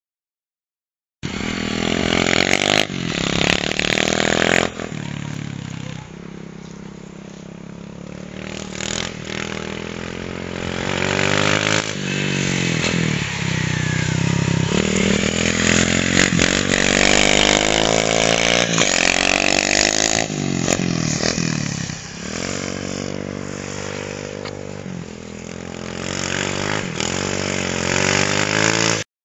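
Pit bike's small single-cylinder engine being ridden hard, revving up and down over and over with each throttle change. The sound starts about a second in and cuts off suddenly near the end.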